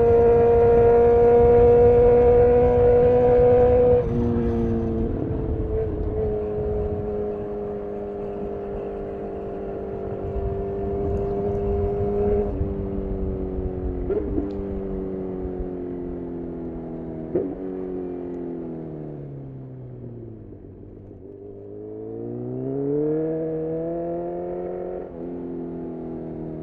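Honda CB1000R's inline-four through a full aftermarket exhaust, ridden at steady high revs, then dropping sharply about four seconds in as the throttle closes. The revs fall in steps, with a couple of sharp clicks, to a low point, then rise again under acceleration before one more quick drop near the end.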